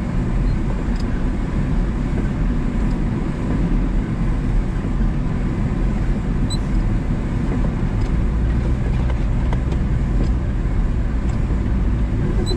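1994 Daihatsu Hi-Jet mini truck driving over snow on top of ice, heard from the dash: its small three-cylinder engine and drivetrain run steadily as a low, even rumble, with a few faint light ticks and rattles.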